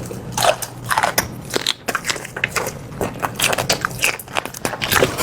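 Close-miked eating: biting and chewing, with many small, irregular crunches and clicks.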